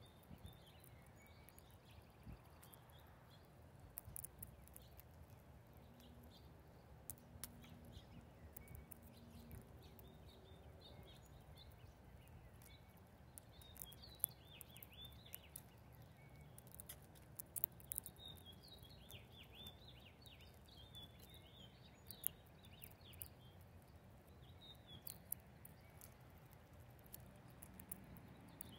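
Faint, scattered chirps of small birds, busiest in the middle of the stretch, with sharp clicks here and there over a low steady rumble.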